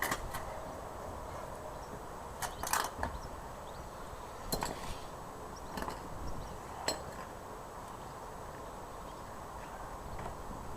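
Scattered metallic clinks and knocks of hand tools and bolts being handled during motorcycle fork removal: a few short, separate clinks spread over several seconds, one small cluster among them.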